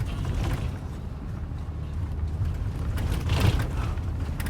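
Moving bus heard from inside the cabin: steady engine and road rumble, with a louder rattling surge about three and a half seconds in.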